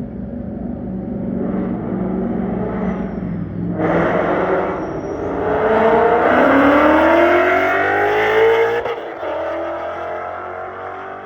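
A car engine running with a steady low note, then about four seconds in a car accelerating hard, its engine pitch climbing steadily for several seconds before cutting off abruptly; a second, quieter rise in engine pitch follows.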